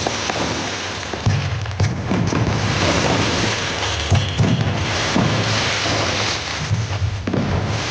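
Aerial fireworks bursting: a string of deep booms about once a second over dense crackling from the burning stars.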